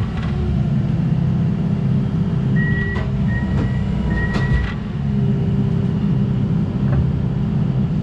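Komatsu 170 tracked excavator running as it is driven onto a lowboy trailer: a steady diesel rumble, a few sharp clanks of the steel tracks on the deck, and a high thin squeal that comes and goes three times in the middle.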